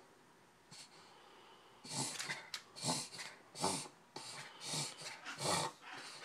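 A puggle's noisy, harsh breaths during a bout of breathing trouble. After a quiet start, a run of loud breaths follows about two seconds in, roughly one every half-second to second. The owner calls it the worst he has ever done it.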